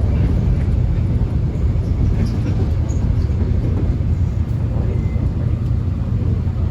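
Steady low rumble of a Korean subway train running, heard from inside the carriage.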